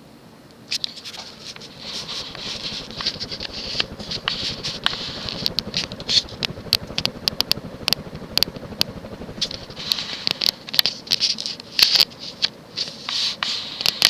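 Nutone Elegance ceiling fan (1988, Kontrust-made) running up to high speed, a rushing hiss building from about a second in, with many irregular sharp clicks and crackles throughout.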